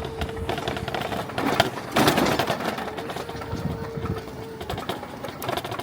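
Car engine running with a fast, busy mechanical clatter, heard from inside the moving car. A steady whine comes in at the start, fades, and returns about halfway through, and there is a brief louder rush about two seconds in.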